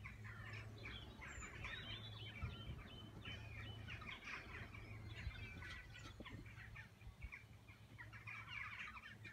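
Faint chorus of many birds chirping and calling, short calls overlapping continuously, over a low steady hum.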